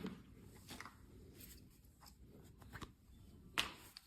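Faint handling sounds from a pair of binoculars and their lens covers being handled: a few soft clicks and rustles, the sharpest click about three and a half seconds in.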